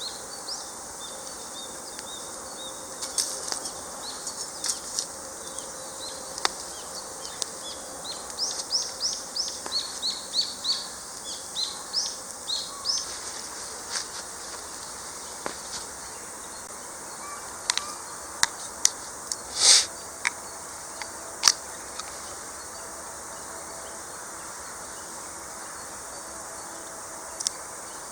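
Small birds chirping outdoors: a quick run of short rising high chirps in the first half, over a steady faint hiss. Scattered sharp clicks and pops run through it, the loudest about twenty seconds in.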